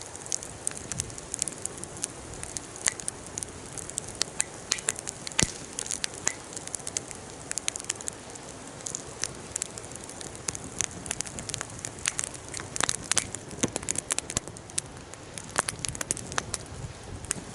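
Wood fire crackling, with frequent irregular sharp pops over a steady soft hiss.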